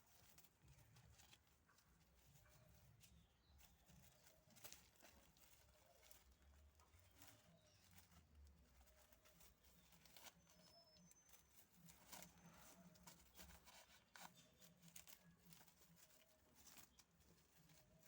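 Near silence: faint room tone with scattered soft taps and clicks.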